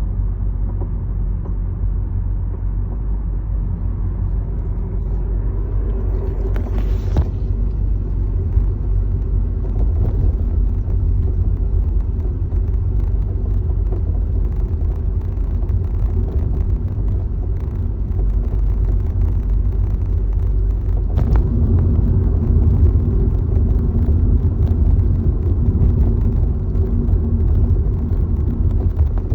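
Honda Accord (CU2) on the move, a steady low rumble with a few brief knocks, about 7, 10 and 21 seconds in, that grows a little stronger about two-thirds of the way through. It is the abnormal noise from the car's right front suspension whose cause the owner does not know.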